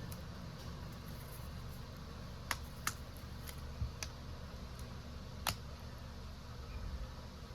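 Sparse light clicks and taps of small hand tools on a smartphone's parts during a battery replacement, about five spread over a few seconds, over a steady low hum.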